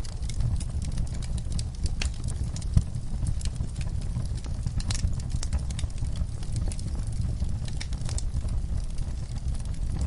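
Wood fire crackling in a fireplace: a steady low rumble of flames with irregular sharp pops and snaps, one louder pop about three seconds in.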